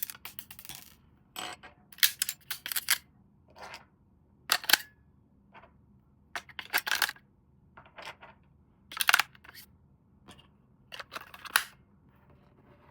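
Irregular short clicks and crinkles of plastic toy parts and packaging being handled while RC toy cars are unboxed, coming in small clusters of two or three with brief pauses between.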